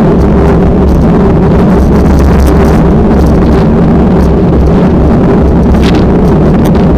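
Strong wind buffeting the microphone: a loud, steady low rumble with a few brief gusty hisses.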